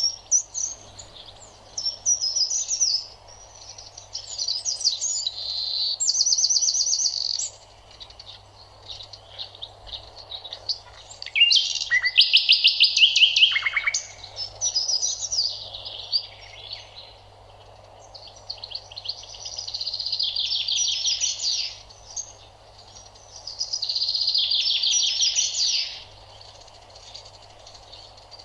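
Songbirds singing: a run of high chirped and rapidly trilled song phrases, each lasting a second or two, with short pauses between them.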